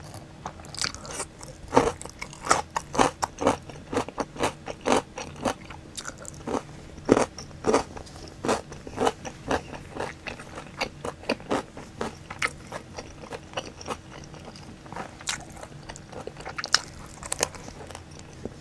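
Crunchy chewing of a pickled radish cube: a quick run of crisp crunches, about two a second, that thins out after about thirteen seconds, with a few more crunches near the end.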